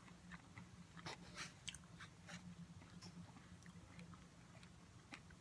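Faint close-up chewing of a bionico fruit cup (cut strawberries, apples and bananas with granola), with scattered small wet mouth clicks and smacks over a steady faint low hum.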